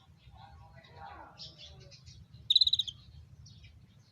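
Konin birds calling: one short, buzzy, rapidly pulsed call about two and a half seconds in, with softer chirps and low twittering around it.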